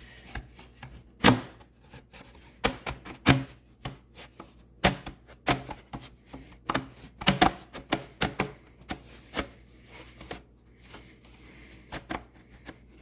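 Hard plastic blower tube being worked back onto its fitting on a Stihl BR600 backpack blower, giving an irregular series of sharp plastic knocks and clicks, two of them louder near the start, as the freshly heat-rounded tube is pushed and twisted into place.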